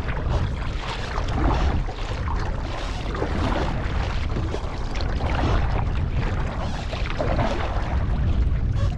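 Water splashing from kayak paddle strokes, over a steady rumble of wind on the microphone.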